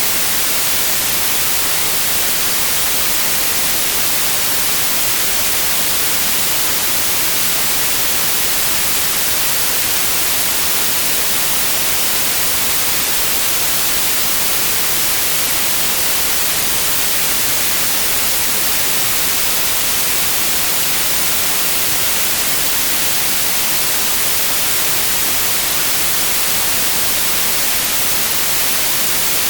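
Steady white noise, an even, unchanging hiss across the whole range of pitch, brightest in the highs.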